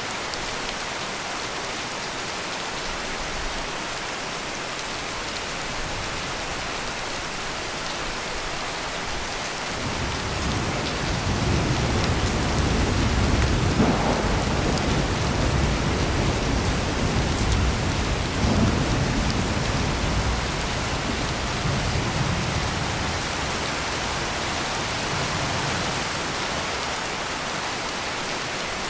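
Heavy rain pouring steadily. About ten seconds in, a long low rumble of thunder rolls in, swells twice and fades out over roughly ten seconds, leaving the rain alone again.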